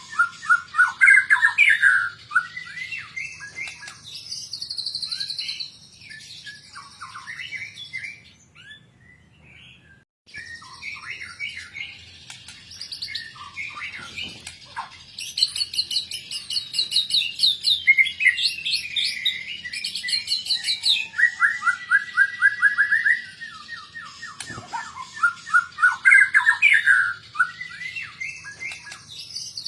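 White-rumped shama (murai batu) singing a long, varied song of loud whistles, rapid trills and chattering phrases, full of fill-in (isian) phrases. The song breaks off for about two seconds around nine seconds in, then resumes.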